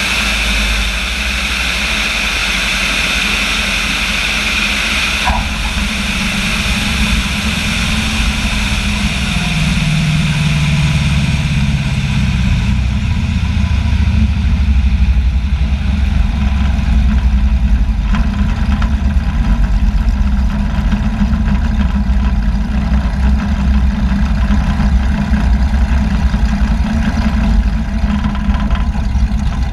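Small propeller airplane's engine running steadily with a deep rumble. A high hiss fades over the first dozen seconds, and a tone slides down in pitch about ten seconds in.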